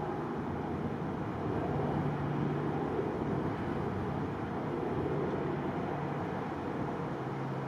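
Steady roar of a jet airliner's engines taking off, with a faint low hum that comes and goes.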